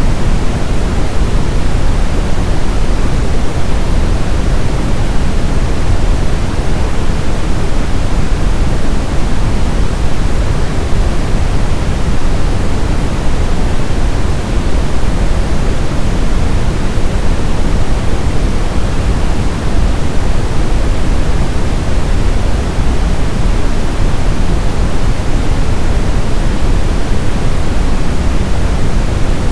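Synthetic brown noise: a steady, loud hiss-like rumble with its energy heaviest in the low end and thinning toward the highs, unchanging throughout.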